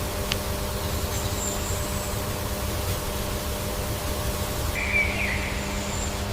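Steady low rumble and hiss of outdoor ambience with a constant hum, a single click near the start, and a brief faint bird chirp about five seconds in.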